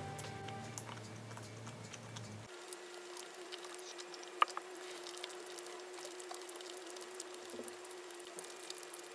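Quiet eating sounds: soft chewing and small mouth clicks over a faint steady hum, with one sharper click about four seconds in. Background music stops about two seconds in.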